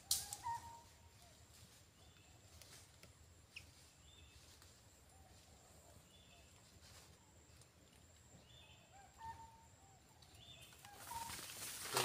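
Faint bird calls in woodland: short, scattered whistled notes a few seconds apart over a steady faint high tone. Near the end a swell of noise rises.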